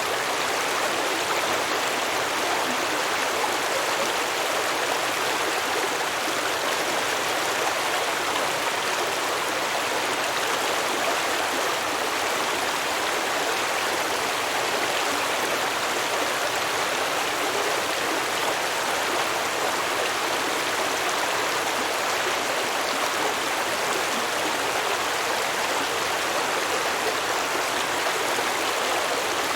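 A stream of water flowing and babbling over rocks, a steady rushing sound without change.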